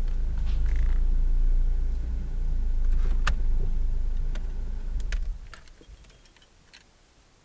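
Car engine running, heard from inside the cabin, with several sharp clicks and a jingle of keys, then the engine is switched off about five seconds in. After that there is near quiet with a few faint ticks.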